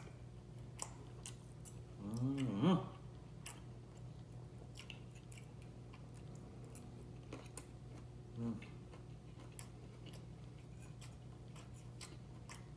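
A person chewing food, with small clicks of a metal fork against a plate and mouth. Twice a short hummed "mm", about two seconds in and again near the eight-second mark.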